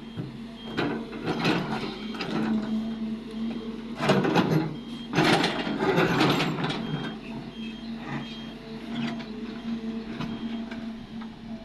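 Cat 330D excavator engine running steadily while rock and spoil scrape and clatter, loudest in two rushes of material about four and five to six seconds in.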